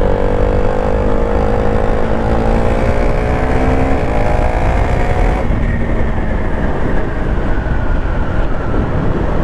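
KTM Duke 390 single-cylinder engine pulling under acceleration while riding, its note rising steadily for about five seconds, then dropping off as the throttle eases or the gear changes. Wind rush on the microphone runs underneath.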